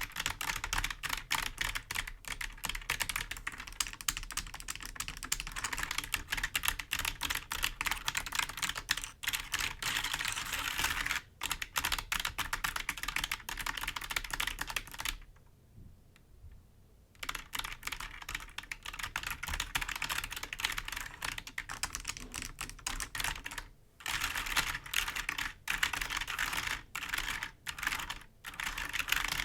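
Fast, dense tapping and scratching on the keys of a computer keyboard, a steady run of clicks with a rough scraping texture. There is a pause of about two seconds midway.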